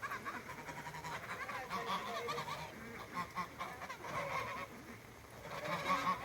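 A flock of domestic ducks calling, many short, overlapping calls, loudest near the end.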